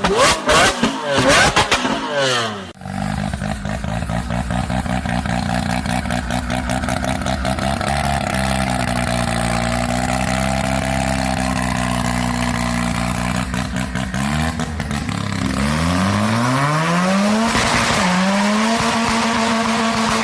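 Sports car engine and exhaust revving in quick rising and falling blips, then switching abruptly to a steady engine note that dips slightly and climbs in pitch about three-quarters through, holding high to the end.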